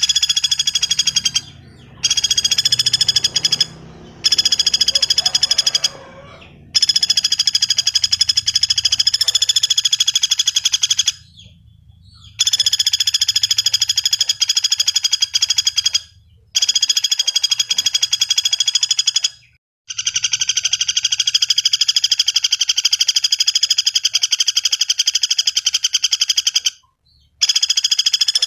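Pelatuk bawang woodpecker calling: a fast rattling trill of rapidly repeated notes, given in long bouts of several seconds each with short breaks between them.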